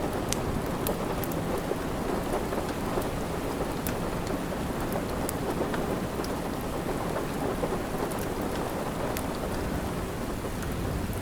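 Steady rain, a dense even wash strongest in the low and middle range, with scattered sharp crackles from a wood fire in a fireplace.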